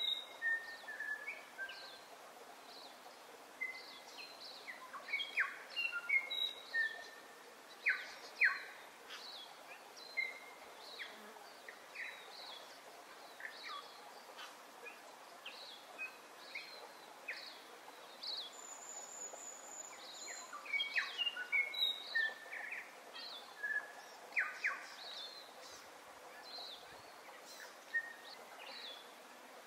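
Birds calling: many short chirps, whistles and quick rising and falling notes scattered throughout, over a faint steady hiss, with one thin high note held for about two seconds about two-thirds of the way through.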